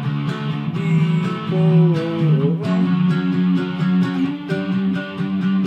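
Seagull Merlin M4, a four-string dulcimer-style guitar, strummed in sustained chords through an amplifier with distortion, with a man singing along over it.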